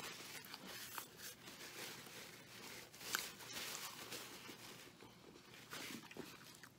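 A man chewing a mouthful of bacon cheeseburger close to the microphone: faint wet chewing with small clicks and smacks, fading away in the last second or two.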